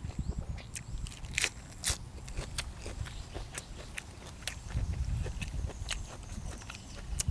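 A person chewing and biting food close to the microphone, with low mouth noises and scattered short, sharp crackling clicks.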